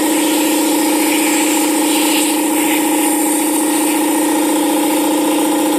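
Campbell Hausfeld air compressor running steadily: a constant pumping hum with overtones and a hiss of air over it.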